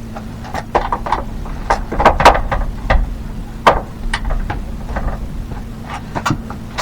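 Irregular knocks, clicks and clatter of hand work with tools and parts, the loudest knocks about two seconds in and again near four seconds, over a steady low hum.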